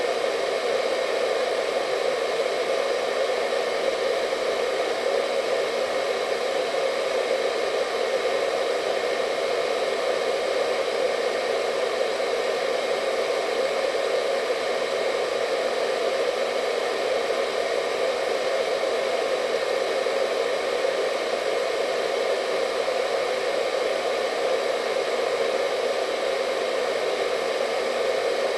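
Hair dryer running steadily: an even rush of air with a faint steady whine from its fan motor, unchanging throughout.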